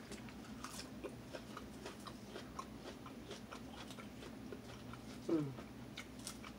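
Close-miked chewing of a forkful of lettuce: many small smacking clicks from the mouth, with one brief falling vocal sound about five seconds in.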